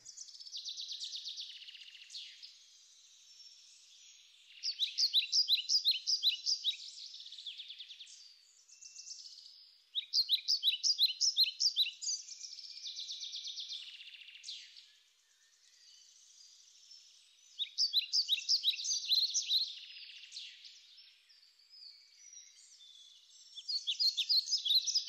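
Songbirds singing: runs of quick, sharp, high-pitched chirps come back every few seconds, with softer chirping between them.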